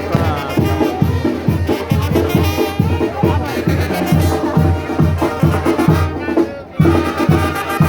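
Brass band music with trumpets over a steady drumbeat of about two beats a second.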